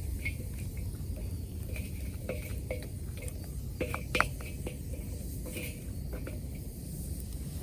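Wood fire crackling, with scattered pops and snaps over a steady low rumble; the sharpest snap comes about four seconds in.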